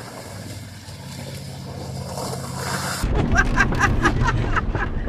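Truck engine running in a mud run, growing steadily louder, with a sudden jump in level about three seconds in.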